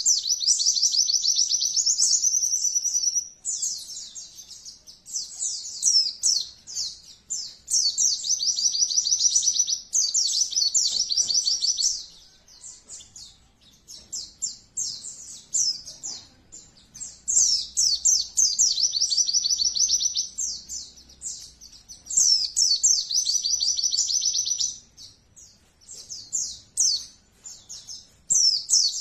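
A colony of white-eyes (pleci) singing in rapid-fire high-pitched runs, the fast 'nembak' song. Dense runs of quick notes lasting a few seconds alternate with scattered chirps.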